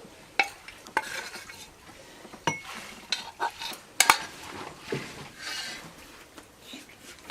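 Spoon stirring and scraping food in a cooking pot, knocking and clinking against the pot about eight times at uneven intervals.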